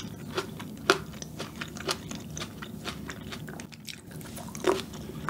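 Close-miked eating of fresh green grapes: biting and chewing with crunches, the sharpest about a second in and again near the end.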